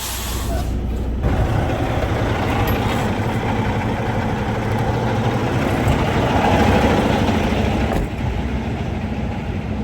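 Semi-truck tractor's diesel engine running steadily as the truck is driven without a trailer, the sound shifting about a second in and again near eight seconds.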